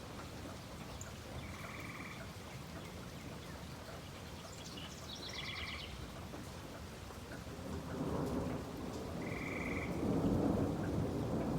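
Steady rain falling while thunder rumbles, the rumble swelling about two-thirds of the way through. Short high trills repeat every few seconds over the rain.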